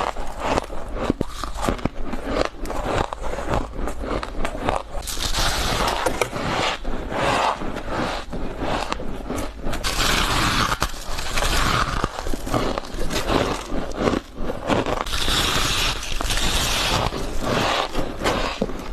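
Freezer frost and shaved ice being bitten and chewed: dense crisp crunching made of many small cracks, with louder surges of crunching every few seconds.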